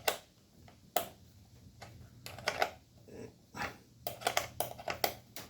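Scattered sharp clicks and taps of small parts being handled while a screw on a motorcycle's battery cover is tightened by hand, with a quicker run of clicks about four seconds in.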